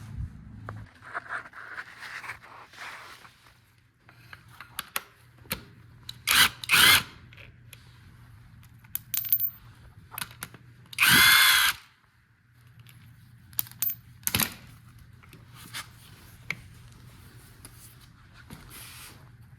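A handheld power tool running in short bursts: two quick bursts about six to seven seconds in, then a longer one around eleven seconds with a whine that rises and falls as the motor speeds up and slows, among scattered clicks and knocks of tool work.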